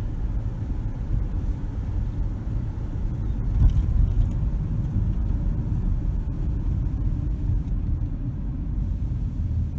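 Steady low rumble of a car driving along, road and engine noise heard from inside the cabin, with a brief louder bump about three and a half seconds in.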